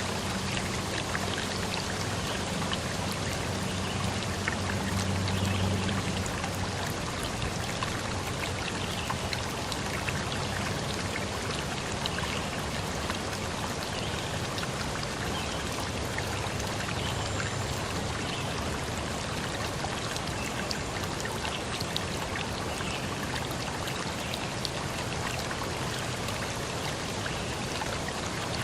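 Steady rushing water: an even hiss sprinkled with many small drips and splashes. A low hum sits under it for the first several seconds, then fades.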